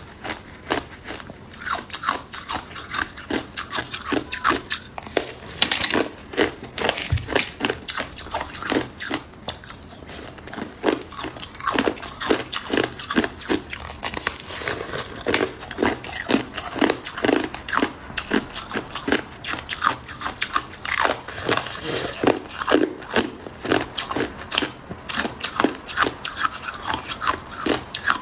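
Hard ice cubes being bitten and chewed close to the microphone: a rapid, irregular run of sharp crunches and cracks.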